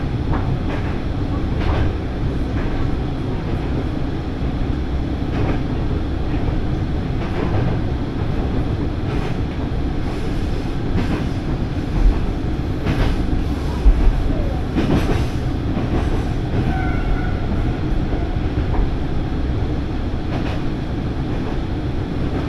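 Diesel railcar running at speed, heard from inside the cabin: a steady rumble of engine and wheels, with irregular clicks of the wheels over the rail joints. Two louder knocks come a couple of seconds apart about halfway through.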